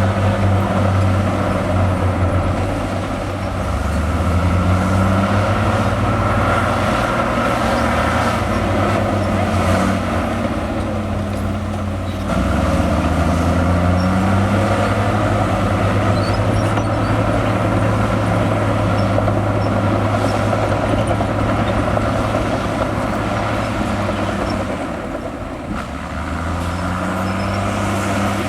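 Bulldozer's large diesel engine running under working load, its pitch rising and falling as the load changes, with a brief dip about 25 seconds in.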